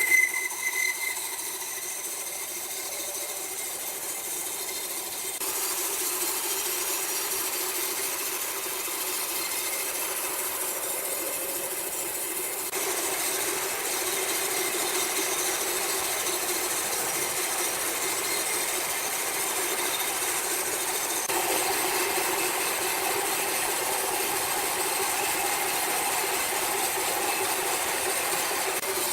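Sawmill machinery running steadily, with a couple of sharp knocks in the first second.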